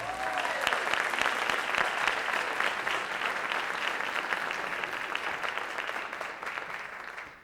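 Audience applauding after a song, the clapping dying away near the end.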